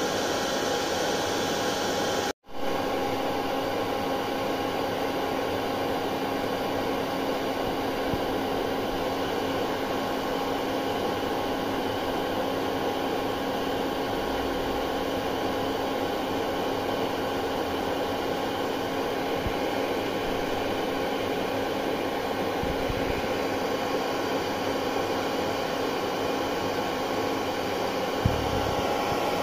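Hair dryer running steadily: a continuous rush of air with a steady motor hum. The sound drops out for an instant about two seconds in, then comes straight back.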